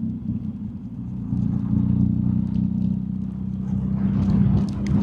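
BMW R1250GS Adventure's boxer-twin engine running at a steady cruise under way, a low droning hum. The note firms up and gets a little louder about a second and a half in.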